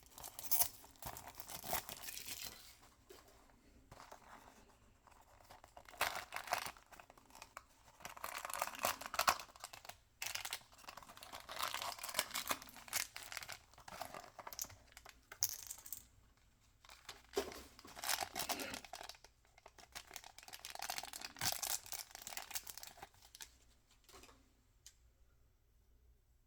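Toy packaging wrappers being torn open and crinkled by hand, in irregular bursts with small clicks; the handling stops near the end.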